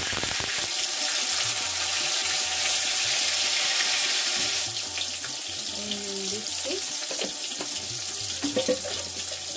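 Chopped tomatoes frying in hot oil in a wok-shaped kadai, a loud, steady sizzle that eases somewhat about halfway through as the spatter dies down.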